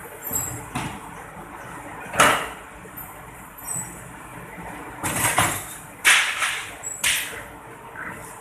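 Screw extruder for kerupuk dough running with a steady mechanical hum, broken by several irregular, short noisy bursts of clatter, the loudest about 2 seconds in and around 5 to 7 seconds in.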